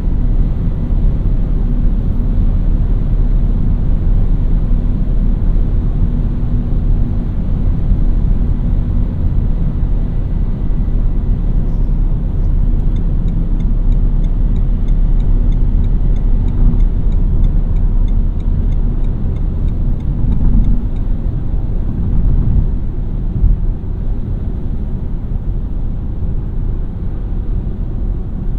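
Renault Mégane TCe 100's 1.2-litre four-cylinder turbo petrol engine and tyre noise while driving: a steady low rumble with a faint engine hum. A quick, regular light ticking runs for a few seconds midway.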